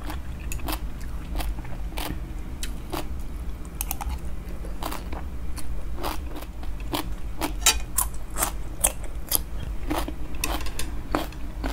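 A person chewing and crunching food close to the microphone, with many short, sharp crunches at an uneven pace. A low steady hum sits underneath.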